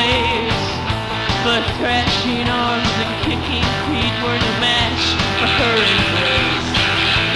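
Rock band playing live in an instrumental stretch, with electric guitar lead lines sliding and bending in pitch over bass and drums. The sound is thin at the top, as on an old concert tape.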